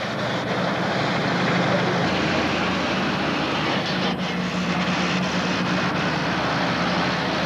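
Pro stock pulling tractor's diesel engine running loud and steady, with a dense rushing noise over a low hum; the engine note shifts about two seconds in.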